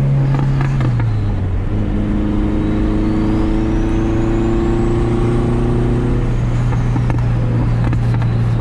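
Turbocharged Honda H22A four-cylinder engine heard from inside the car's cabin while cruising off boost; the engine note drops about a second in as the revs fall, then holds steady. A faint high whistle rises and falls in the middle.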